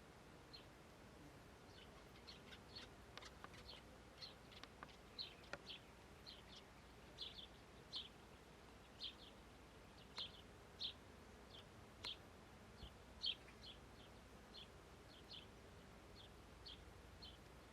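A small bird in a meadow giving short, high chirps, singly or in quick pairs, at an uneven pace, faint over a quiet background hiss.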